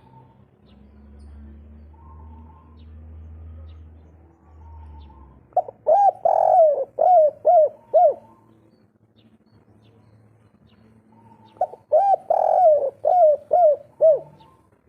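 Spotted dove (derkuku/tekukur) of the 'kuk 3' call type cooing: two phrases about six seconds apart, each a run of about six coos with one longer, fuller note near the start. A faint low hum sits under the first few seconds.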